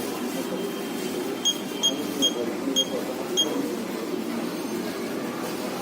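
Five short, high electronic beeps spaced over about two seconds, from the operation panel of a Juki LK-1900A computer-controlled bartack machine, as its keys are pressed, over a steady low hum.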